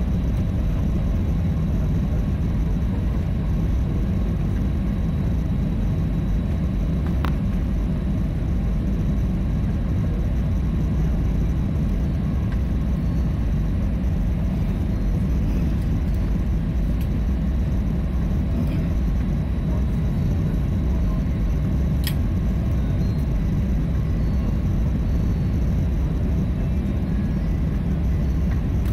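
Steady low rumble of airliner cabin noise from the aircraft's engines and air systems, with two faint clicks, one about a quarter of the way in and one about three quarters through.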